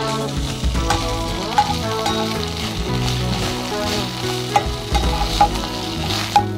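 Fresh mint leaves sizzling in a little oil in a nonstick kadai while being stirred with a slotted metal spatula. The spatula clicks sharply against the pan a few times.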